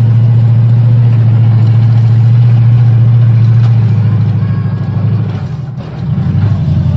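Big engine of a monster-truck ride running with a loud, steady deep drone. About four seconds in, its note shifts and the level dips briefly before picking up again.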